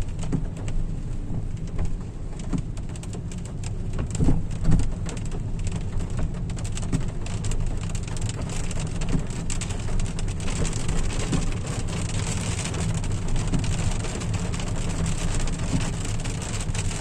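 Rain falling on a moving car, heard as dense fine taps of drops, over the car's steady low rumble. The rain grows heavier about halfway through.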